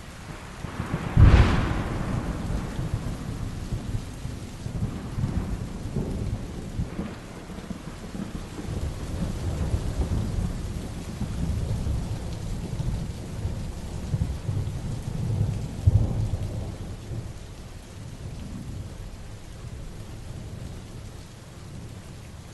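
Heavy rain falling steadily during a thunderstorm. A close thunderclap cracks about a second in and rolls on as long low rumbling, with another loud rumble about two thirds of the way through.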